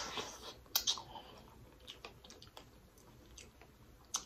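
Biting into and chewing boiled corn on the cob: a crunchy bite at the start, a sharp click just under a second in, then soft irregular chewing clicks and another sharp click near the end.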